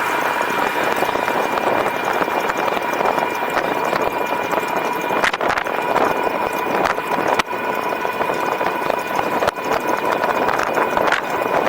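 E-bike under way: steady rush of wind and tyre noise with a steady high whine from the electric motor, and a few sharp knocks from bumps in the path.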